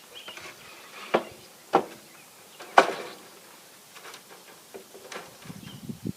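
A few sharp, separate knocks and clicks, the loudest three in the first three seconds, from work with stiff wire hardware cloth over a wooden gate frame.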